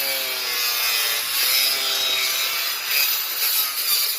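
A saw cutting steadily with a rasping, scraping noise, squealing in the first two seconds.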